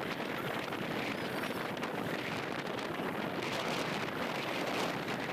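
Strong monsoon wind blowing steadily across the microphone, over the rush of rough surf.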